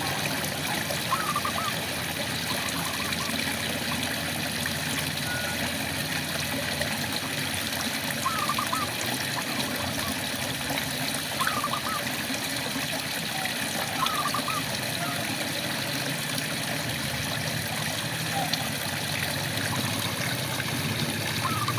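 Steady rain falling, with frogs calling every few seconds in short bursts of quick chirps over the hiss.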